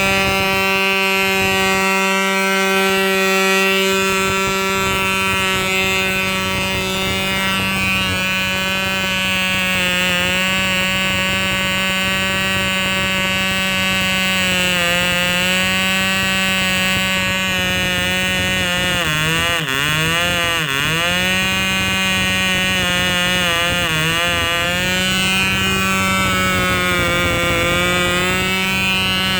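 Enya .19 glow engine on a control-line model plane running at high revs, a steady high-pitched buzz. Around two-thirds of the way through the pitch dips and wavers a few times, then settles again.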